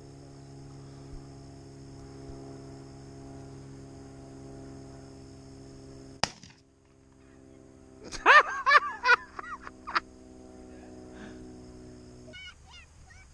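A single shotgun shot about six seconds in, followed two seconds later by a burst of loud, high calls that rise and fall. A steady hum runs underneath and stops shortly before the end.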